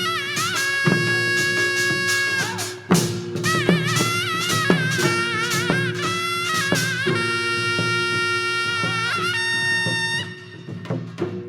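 Korean traditional accompaniment for the Jindo drum dance: a reedy wind instrument plays a melody with wide, wavering vibrato and long held notes over a steady low drone, punctuated by sharp drum strokes. The music dips briefly near the end.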